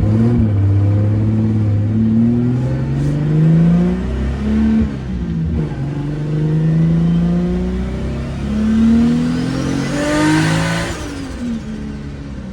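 Turbocharged Toyota Supra engine pulling hard under full boost, its revs climbing and dropping back at each of several gear changes, then falling away near the end.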